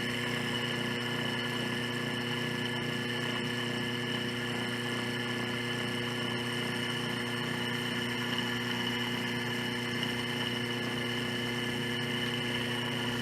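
Washing-machine motor from an Electrolux LTE12, running unloaded on the bench in reverse: a steady hum with a high whine over it. Its bearing noise points to a worn motor bearing as the cause of the machine's noisy spin.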